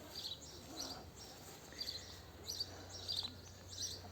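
Small bird chirping, short high chirps repeating about once a second.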